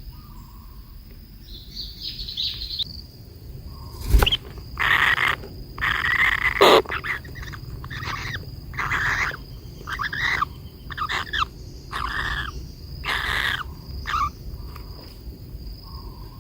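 Bird calling: a run of short, harsh chirps, one or two a second, starting about four seconds in, with a sharp click just before they begin.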